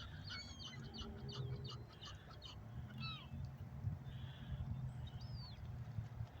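A flock of waterbirds calling: many short, high chirps and squeaky calls that slide downward in pitch, overlapping throughout, over a low steady rumble.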